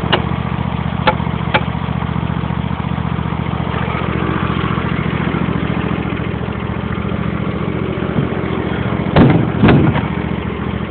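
Riding lawn mower engine running steadily, with three sharp clicks in the first two seconds and a couple of louder, rougher noises near the end.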